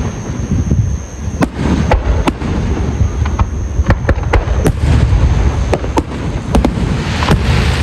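Fireworks display: a quick, irregular string of sharp bangs over a continuous low rumble of bursting shells, with a hissing crackle swelling up near the end.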